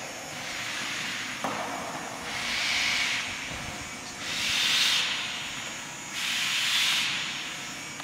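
A person blowing through a drinking straw to inflate the 9-inch balloon of a balloon-powered toy car: a breathy hiss of air in long puffs about every two seconds, with a pause for breath between them.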